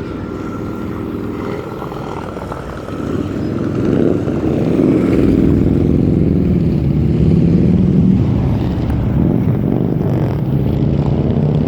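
Motorcycle engines running, growing louder about three seconds in and staying loud, as if passing close by or rumbling along the street.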